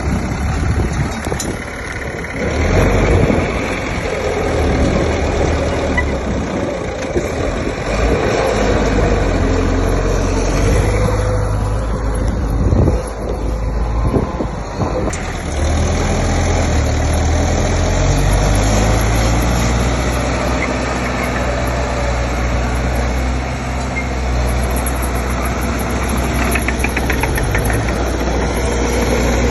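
Diesel engine of heavy earthmoving machinery running steadily, with a few sharp knocks about halfway through.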